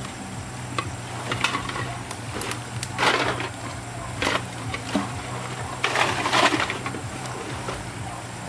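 Several crunching, scraping noises with a few sharp clicks, over a steady low hum; the loudest bursts come about three seconds in and around six seconds.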